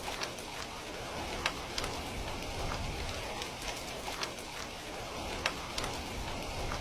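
Steady rain mixed with a crackling fireplace: an even hiss with scattered sharp pops, the loudest about a second and a half in and again about five and a half seconds in.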